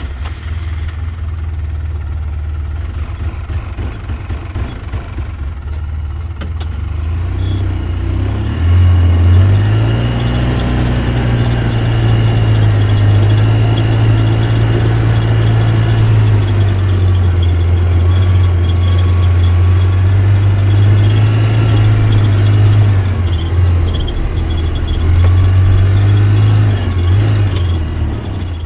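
Tractor running with a steady low drone that gets louder about eight seconds in, a faint high whine above it.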